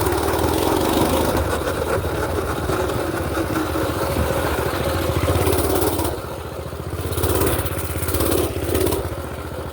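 Mini bike's small engine running steadily, easing off briefly about six seconds in.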